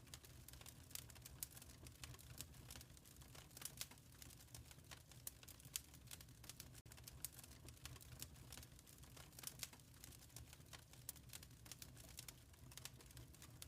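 Wood fire crackling in a fireplace: frequent small, irregular pops and snaps over a low, steady rumble of burning, all faint.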